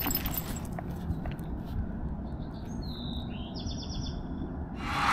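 A songbird singing a short chirping, trilled phrase about three seconds in, over a low steady background rumble.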